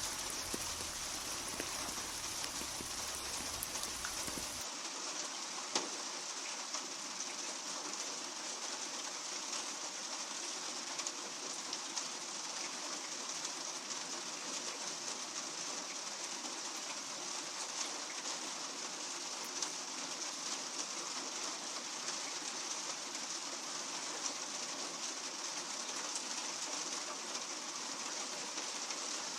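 Steady rain falling on a hard surface, with scattered single drops ticking. About five seconds in, a low rumble and the highest hiss drop away, and the rain carries on.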